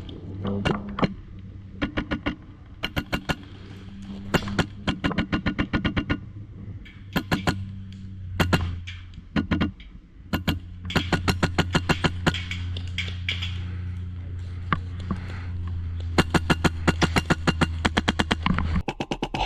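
Airsoft guns firing in rapid bursts, each a quick run of sharp cracks, repeated many times, over a steady low drone.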